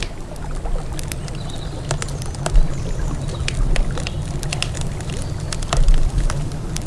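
Wood campfire crackling, with frequent sharp irregular pops and snaps over a steady low rumble.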